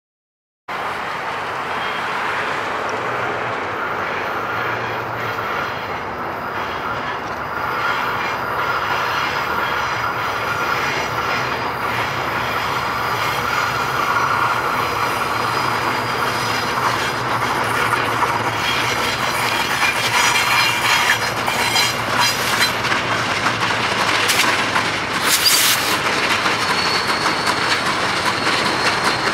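Trinity Railway Express commuter train running on the rails, growing gradually louder, with wheels clicking over rail joints and a high wheel squeal near the end.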